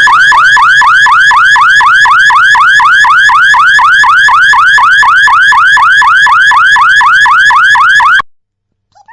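Electronic warbling siren, a loud rising-and-falling whoop repeated about four times a second, cutting off suddenly about eight seconds in.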